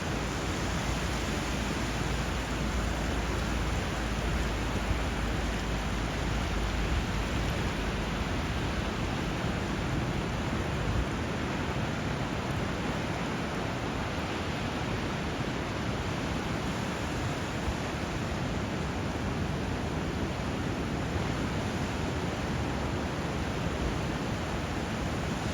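Steady, even rush of water where a river runs into the sea, with no single wave break or bird call standing out.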